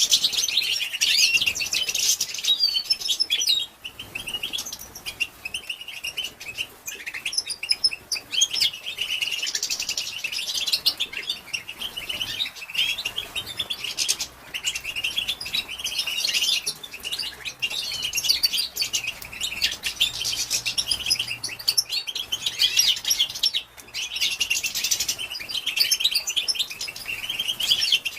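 Female European goldfinch twittering: fast, high chirps in bouts of a few seconds with brief pauses between them. This is the call that is played to stimulate male goldfinches to sing.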